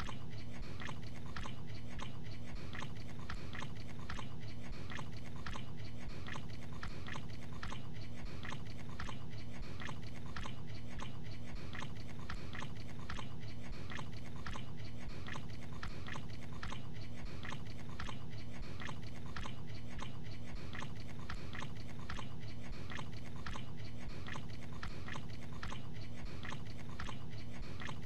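A man chewing a mouthful of gabagool (sliced capicola) in a steady, even rhythm of wet chews that goes on without pause.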